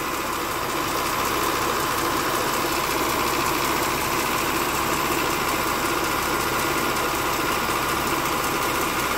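Honda Odyssey V6 engine idling steadily, heard from underneath close to the engine block.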